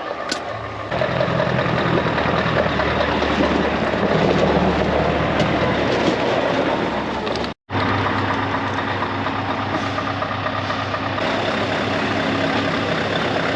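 Heavy lorry diesel engines idling steadily, with a brief dropout about halfway through after which the engine note changes slightly.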